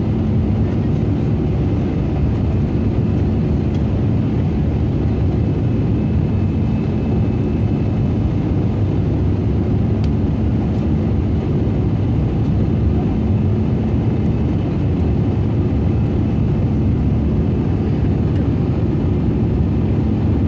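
Steady low rumble of an Airbus A320-200 heard from inside the cabin: engine and airflow noise with a faint constant hum, unchanging throughout.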